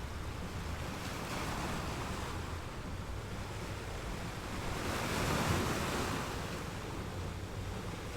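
Ocean waves washing onto a beach: a steady rush of surf that swells louder about five seconds in as a wave breaks, then eases.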